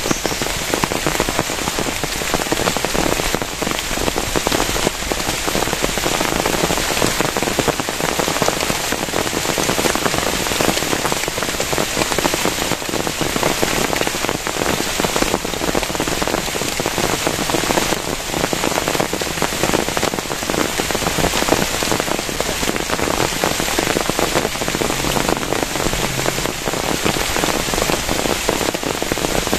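Heavy rain falling steadily, a dense, even hiss of countless drops striking a surface, with no let-up.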